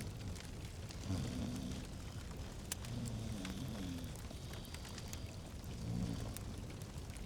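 Fireplace fire crackling, with scattered sharp pops over a steady hiss and a low rumble.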